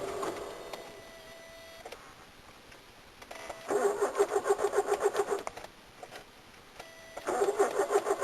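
A car's electric starter cranking an engine that will not start, in three tries of a second or two each, with a rhythmic chug of about five or six strokes a second and no catch. Between the tries a faint steady tone sounds.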